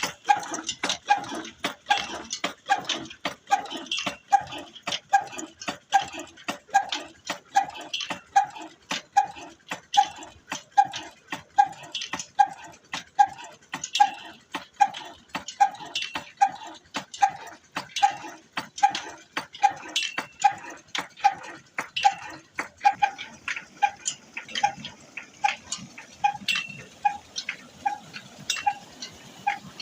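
Old black Ruston engine running slowly, a steady beat of about three firing strokes every two seconds, each stroke carrying a short pitched note with sharp clicks, a little softer in the last few seconds.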